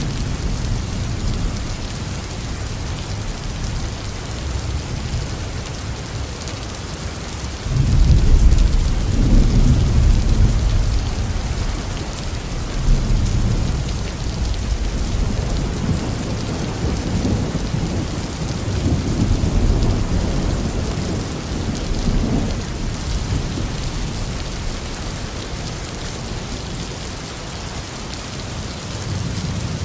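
Heavy rain falling steadily on a roof, with a deep roll of thunder that breaks in suddenly about a quarter of the way through, rumbles on in surges and slowly dies away.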